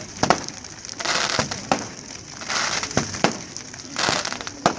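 Fireworks display: sharp bangs of shells bursting, about five in all, with repeated stretches of hissing crackle in between.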